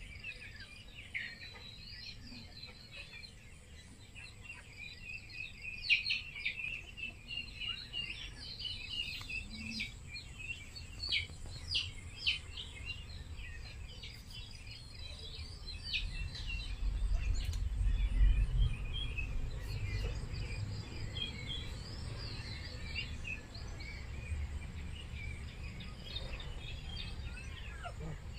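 Many small birds chirping and twittering in quick, overlapping calls. A low rumble rises in the second half and is loudest a little past the middle.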